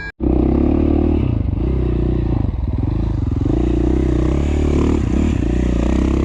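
2017 KTM 450 XC-F single-cylinder four-stroke dirt bike engine running under way, its pitch rising and falling with the throttle, with some clatter from the bike.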